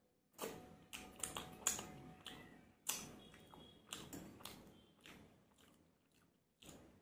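Close-miked chewing of a mouthful of aloo-gobhi (potato and cauliflower) sabji, with wet smacking mouth clicks that thin out after about five seconds. One more short click comes near the end.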